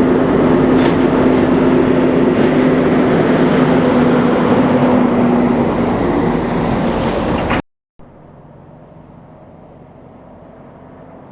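Freightliner Cascadia semi truck's diesel engine running loud at close range, with a steady engine drone over heavy road noise. It cuts off abruptly and gives way to a much quieter, muffled engine sound for the last few seconds.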